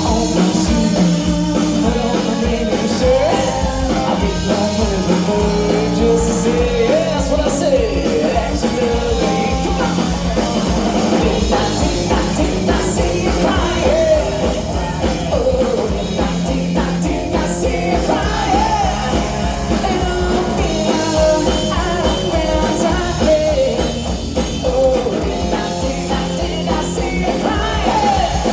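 A live rock band playing, with singing over electric guitar and drums.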